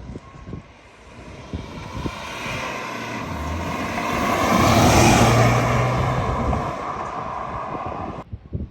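A vehicle passing by: its noise builds to a peak about five seconds in, then fades away.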